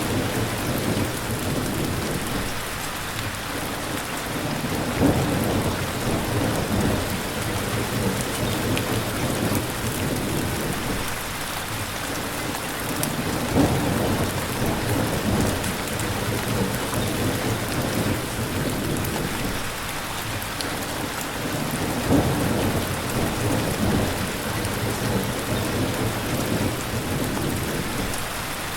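Steady rain falling, with low rumbles of thunder swelling and fading underneath a few times.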